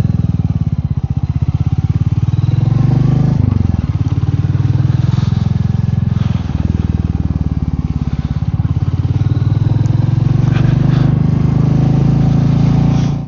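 Royal Enfield Meteor 350's single-cylinder engine running under way, a steady pulsing thump, with the revs dipping and picking up again twice, about a quarter and half way through.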